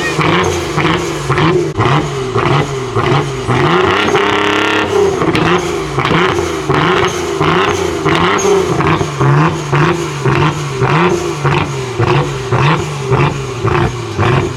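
Car engine revved again and again in quick throttle blips, the pitch rising and falling in a steady rhythm, with one longer rev about four seconds in.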